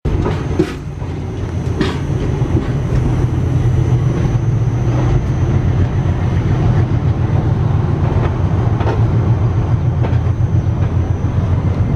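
Passenger express train running, heard from aboard a coach as it pulls out of the station: a steady low rumble of wheels on rail, with a few sharp clicks as the wheels cross rail joints and points.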